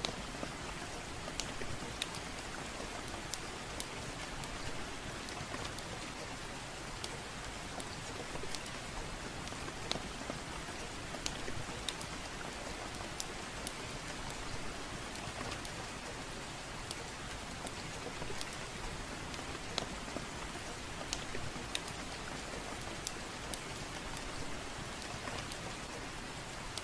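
Steady soft rain with a wood fire crackling: an even hiss of rain with scattered, irregular sharp pops over it.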